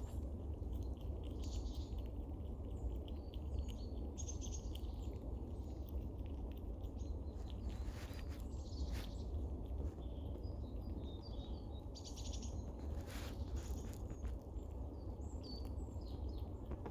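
Eurasian red squirrel giving scattered short, high squeaks and a few sharp clucks, over a steady low background rumble. The calls are territorial, warning other squirrels off her food.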